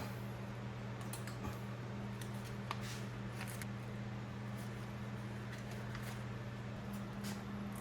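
Scattered light clicks and taps of hand tools and metal parts being handled while a motorcycle is taken apart, one sharper tick near the middle, over a steady low hum.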